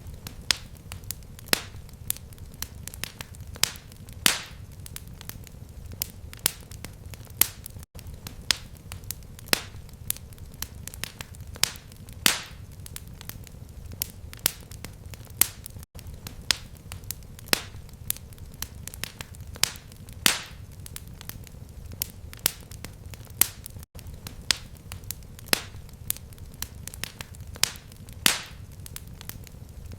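Fireplace fire crackling: irregular sharp pops and snaps over a steady low rumble. It is a short recording looped about every eight seconds, with a brief dropout at each seam.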